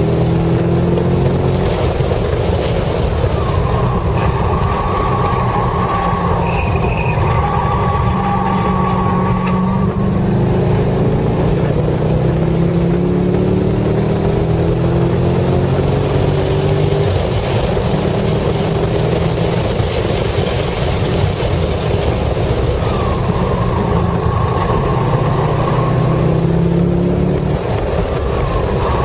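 Chevrolet Corvette C6 Z06's LS7 V8 heard from inside the cabin at racing speed, its pitch rising repeatedly as it accelerates and dropping back between pulls.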